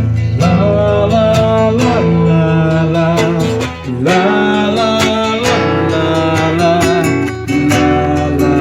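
Acoustic guitar strummed in a steady rhythm, playing a song's instrumental introduction, with a gliding melody line sounding over the chords.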